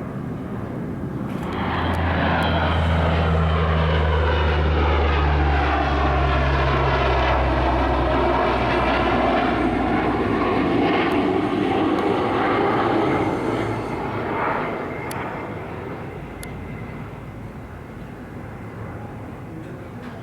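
Lockheed KC-130R Hercules flying past, its four turboprop engines giving a steady low propeller drone with a sweeping, phasing hiss above it. It swells in after about two seconds, stays loud for some twelve seconds, then fades away.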